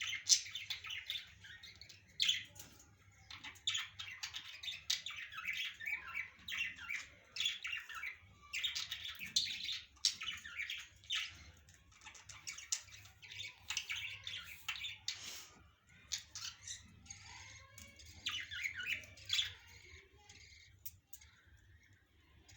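Several parrots chattering, a dense run of rapid high chirps and squawks that thins out near the end.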